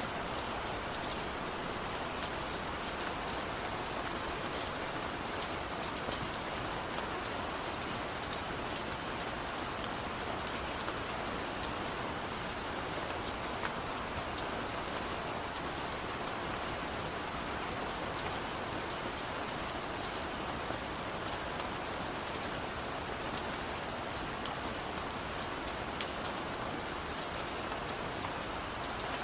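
Steady rain falling, an even hiss dotted with many small, sharp drop ticks on a surface, with no thunder.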